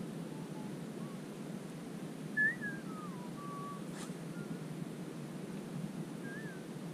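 Birds calling with short whistled notes that slide up and down, the loudest about two and a half seconds in, over a steady low rush of wind and water.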